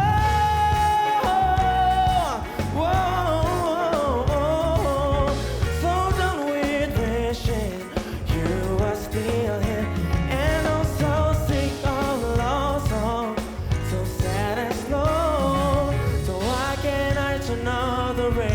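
A solo singer holding and sliding through drawn-out notes with vibrato over a band accompaniment with a strong steady bass.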